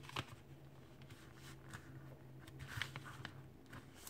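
Faint rustling and soft creasing of a sheet of paper being folded by hand, a few light crackles scattered through it, over a low steady hum.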